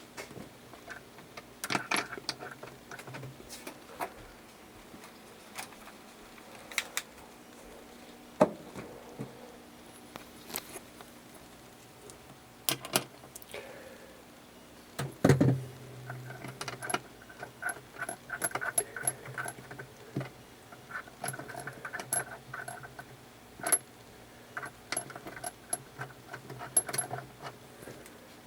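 Small metal parts and tools clinking and clicking irregularly while being handled. About halfway there is a louder knock, after which a low steady hum joins.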